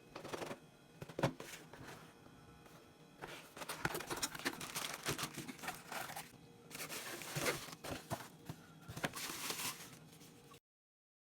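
Irregular rustling, crinkling and scraping of plastic packaging as the mini cordless vacuum is handled, over faint background music. The sound cuts to dead silence shortly before the end.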